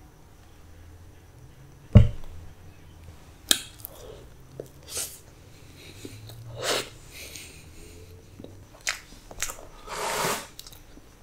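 Mouth sounds of chewing a mouthful of soft Black Forest cake: scattered wet smacks and clicks a second or two apart. A sharp click about two seconds in is the loudest sound, and a short breathy rush comes near the end.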